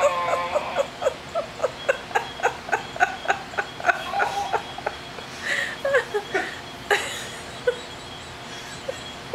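Rapid string of short, strange grunting noises, about three or four a second, thinning to a few scattered grunts after about seven seconds.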